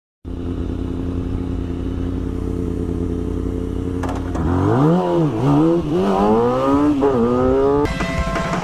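Motorcycle engine idling steadily, then revved up and down several times from about four seconds in. Near the end it cuts abruptly to a different engine sound.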